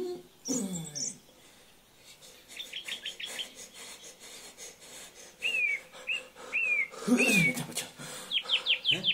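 Small birds chirping: a quick run of short chirps, then four clear downward-slurred calls, then another quick run. A man's voice sounds briefly near the start and again about seven seconds in.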